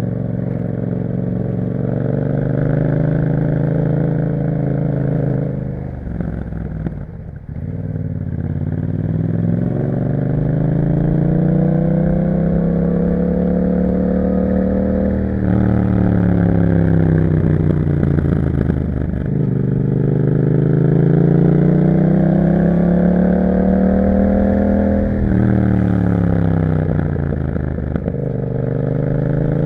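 Yamaha MT-07's parallel-twin engine through an aftermarket Akrapovic exhaust, under way. Its note falls as the bike slows about six seconds in, then climbs again through the gears, dropping sharply at each upshift, several times.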